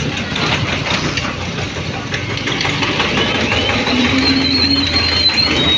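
Eicher 242 tractor's diesel engine running steadily. From about halfway in, a quick run of short high chirps repeats about three times a second over it.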